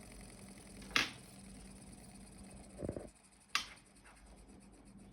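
Hands handling a small model Stirling engine: two sharp clicks and a dull knock over a faint steady hum, with the low running rumble dropping away about three seconds in.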